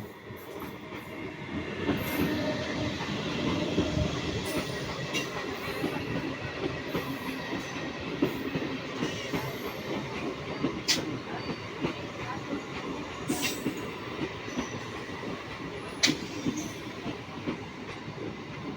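Indian Railways train passing over a level crossing: a steady rumble of wheels on the rails that builds up about a second and a half in, with scattered sharp clanks and clicks from the wheels and rail joints.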